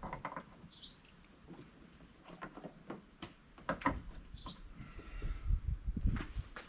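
Scattered light clicks and knocks from hands working an AC gauge-set hose and its coupler at a car's low-side service port, with a few short high chirps.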